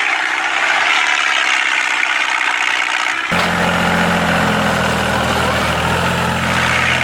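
A small motor running steadily with a hissing whir. About three seconds in, the sound changes abruptly and a low hum joins it.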